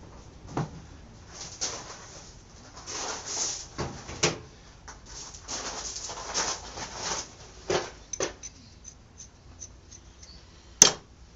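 Hand tools and metal parts being handled while a motorcycle exhaust is taken apart: irregular clicks, clanks and short scraping sounds, with one sharp loud knock near the end.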